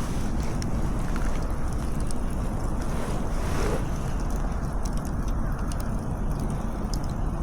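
Wind buffeting the microphone: a steady low rumbling roar, with faint scattered ticks above it.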